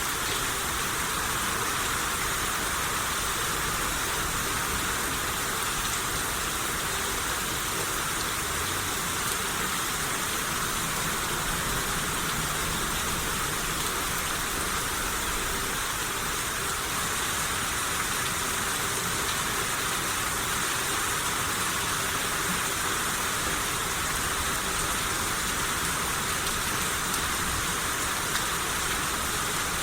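Steady rain shower falling, an even hiss of rain on surfaces with no distinct drops or breaks.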